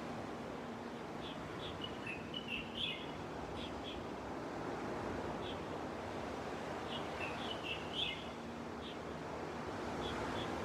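Sea waves washing steadily onto a beach, with small birds chirping in short high notes over it; the chirping comes in two busier flurries, about two and seven seconds in.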